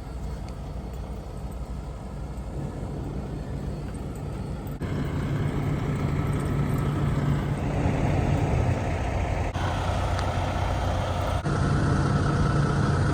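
A motor vehicle's engine running with a steady low hum. It grows louder and changes abruptly a few times.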